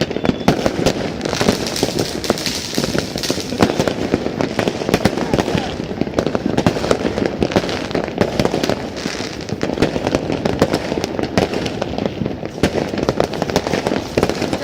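Dense, continuous crackling and banging of many fireworks and firecrackers going off at once, with no break between the reports.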